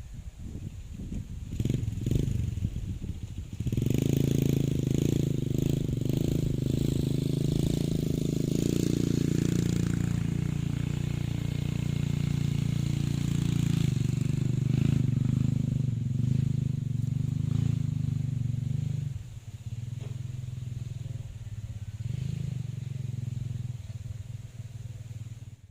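A small engine running at a steady speed. It comes in about four seconds in, stays loud for a while, then drops to a lower level for the last few seconds.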